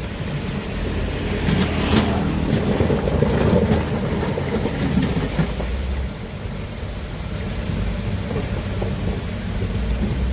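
Heavy excavator's diesel engine running with a steady low rumble, with a louder clattering, scraping stretch beginning about two seconds in.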